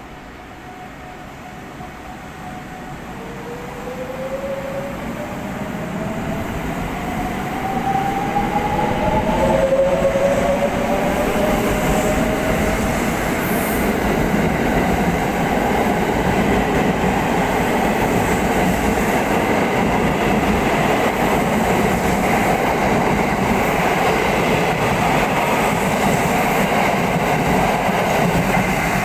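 Train running close by: its sound builds over the first several seconds and then stays loud and steady, with a whine that rises in pitch in the first third.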